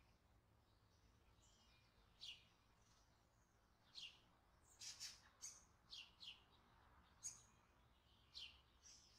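Faint, short high chirps of small birds, about ten of them at irregular intervals, starting about two seconds in.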